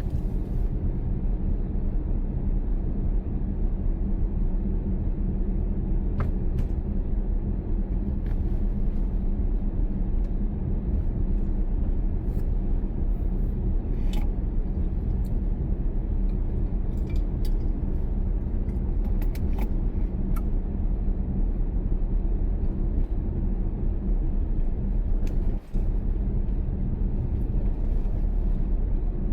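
Car being driven: a steady low rumble of engine and road noise, with a few faint clicks and rattles.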